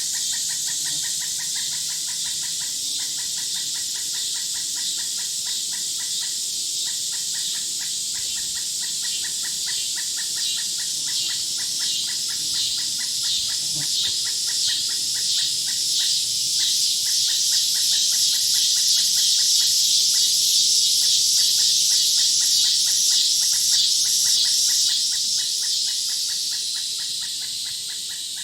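Birds chirping in a dense, continuous chorus of rapid repeated calls, growing louder through the middle and easing near the end.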